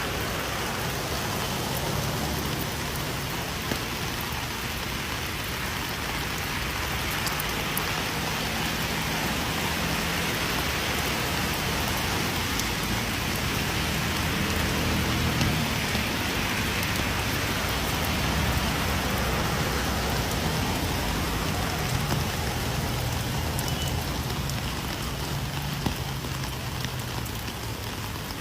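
Steady rain falling and pattering on surfaces, with scattered sharper taps of single drops. It swells slightly and eases off again toward the end.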